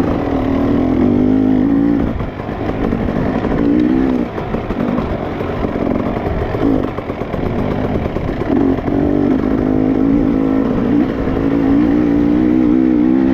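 Dirt bike engine running under throttle while ridden, its pitch wavering as the throttle is worked. It drops off briefly a few times, then is held steady near the end.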